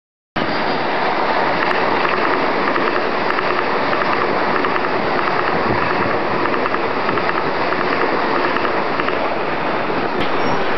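Mumbai suburban electric local trains (EMUs) passing close below, a steady loud rumble of wheels on rail and moving carriages that cuts in suddenly about half a second in.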